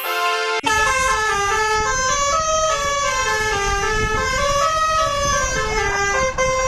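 Electronic melody of short, stepped beeping notes, starting about half a second in after a brief cut, over a rough noise underneath.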